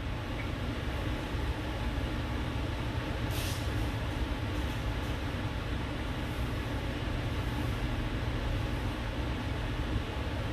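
Steady background noise: a constant low hum with a hiss over it, and one faint brief hiss about three and a half seconds in.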